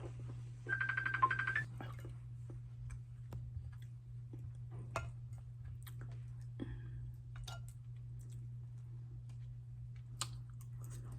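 A short run of rapid electronic beeps about a second in, then faint scattered clicks and taps over a steady low hum.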